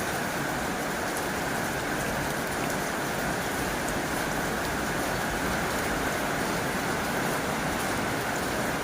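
Heavy rain falling on a tin roof: a steady, dense hiss of drops with faint scattered ticks.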